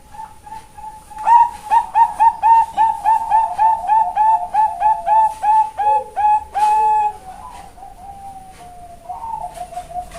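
Female Bangkok-type zebra dove (perkutut) cooing a full song: a few soft notes, then a long, even run of about fifteen quick, ringing coo notes at about three a second. This is the run of many middle notes ('tengah banyak') that perkutut fanciers prize. The run ends in one longer held note, followed by softer trailing coos.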